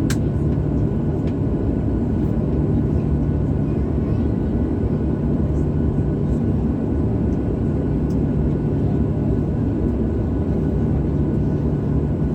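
Steady cabin noise of a Boeing 737-800 in flight: a low rumble of engines and airflow with a constant hum, and one short click at the very start.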